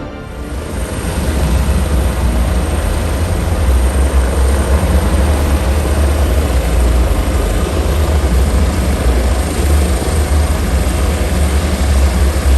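EC645 helicopter running close by: a loud, steady, deep rotor and engine rumble with a thin high turbine whine over it. It builds over the first second or so, then holds.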